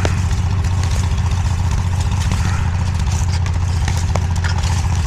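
DIGGIT SCL850 stand-behind mini skid steer's engine running steadily with a deep, even hum, with a few faint clicks over it.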